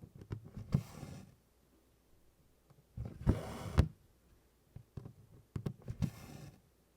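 Needlework on 24-count Congress cloth: DMC floss drawn through the fabric in three short rasping pulls, with small clicks and taps of the needle piercing the cloth in between.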